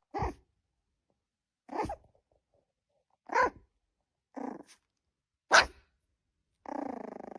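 A dog barking five single, separate barks about a second apart, then breaking into a long, drawn-out growl near the end.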